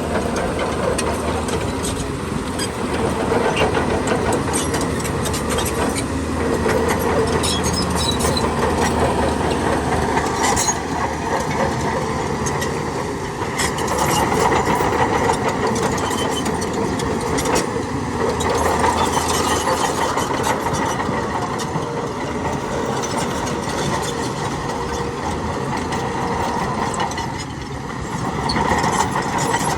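Heavy diesel earthmoving machinery running steadily, with scattered metallic knocks and clanks.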